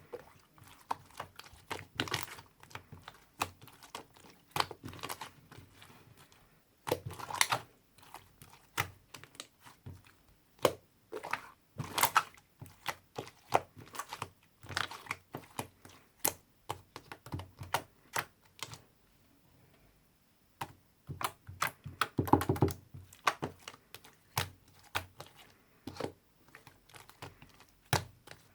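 Irregular clicking, tapping and crinkling of hands working with small craft materials, with a short quiet pause about two-thirds of the way through.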